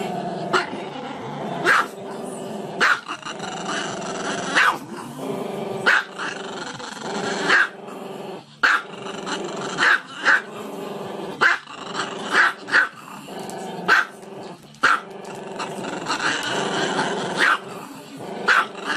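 Small black-and-tan dog with its head raised, giving a continuous growling howl broken by short sharp yaps about once a second.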